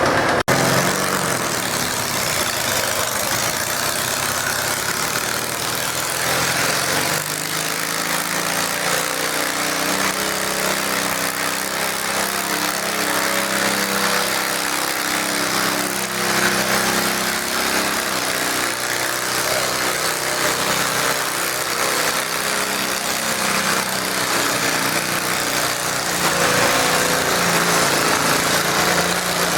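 Garden tractor engine running steadily, with an even, level pitch.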